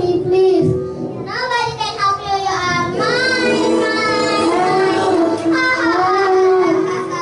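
Children singing a song with backing music, holding long notes that glide up and down.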